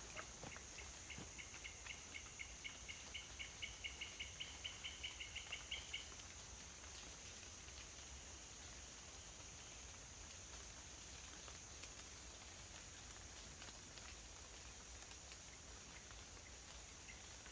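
Rainforest ambience after rain: a steady high-pitched insect drone, with an animal call of quick repeated short notes, about four or five a second and growing louder, over the first six seconds and starting again near the end.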